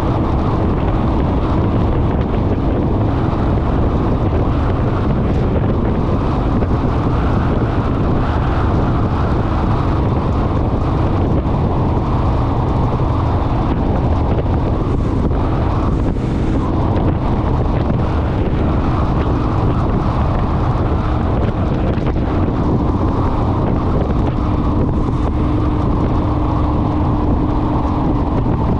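Honda Rebel parallel-twin motorcycle running steadily at cruising speed, with heavy wind rushing over the microphone and a faint steady engine hum underneath.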